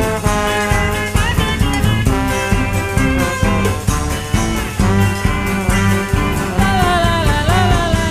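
Band playing an upbeat swing-style instrumental passage over a steady beat, with a wavering melodic line coming in near the end.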